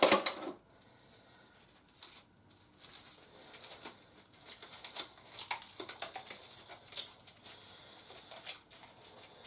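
Small plastic toy accessories and their packaging being handled: a loud rustle right at the start, then light scattered clicks and rustling.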